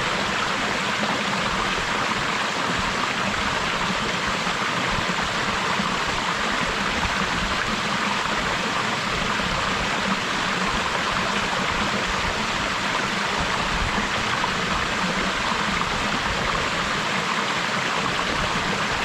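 Waterfall plunging and splashing into a mountain stream, a steady, unbroken rush of water.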